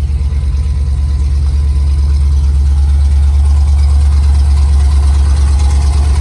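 1974 Chevrolet C30 dump truck's 350 small-block V8, fitted with a cam and headers, idling steadily.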